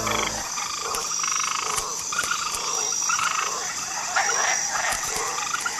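Frogs croaking in short, irregularly repeated calls over a steady high-pitched background hum.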